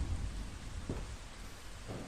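Steady rain with a low thunder rumble dying away in the first half second, then two dull thuds about a second apart.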